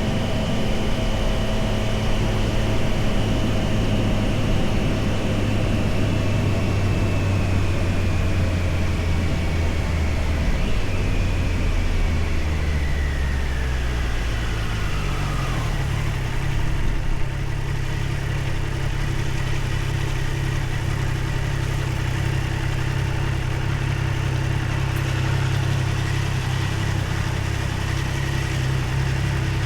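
Triumph Tiger Sport 660's three-cylinder engine slowing, its revs falling gradually over about ten seconds, then idling steadily for the rest of the time.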